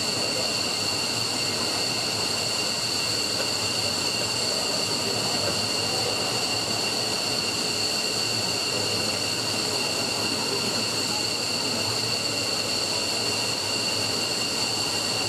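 F-15's F100 turbofan engines running steadily on the ground during an engine test run: an even rushing jet noise with several high, steady whining tones.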